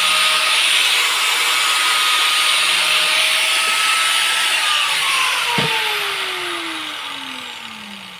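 An electric power tool running at full speed with a steady whine, then switched off: the whine glides down and the noise fades away as the motor spins down. One short knock partway through the spin-down.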